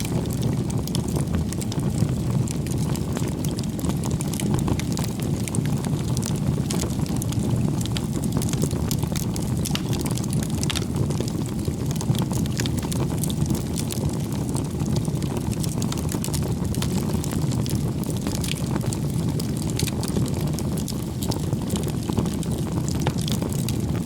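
Firewood bonfire burning steadily: a low, even rumble of flames with frequent sharp crackles and pops from the burning wood.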